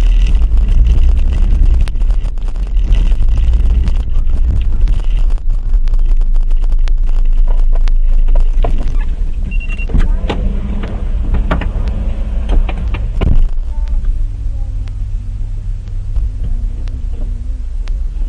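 Car engine and road noise heard from inside the cabin, a heavy steady rumble. About ten seconds in comes a short high beep, then a run of sharp knocks and clicks until about thirteen seconds, after which a steadier low hum remains.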